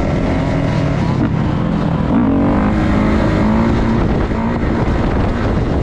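Dirt bike engines running and revving, with the pitch rising briefly about two seconds in.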